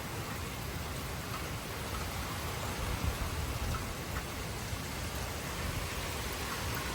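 Steady rain falling in a severe thunderstorm, with gusting wind rumbling on the microphone.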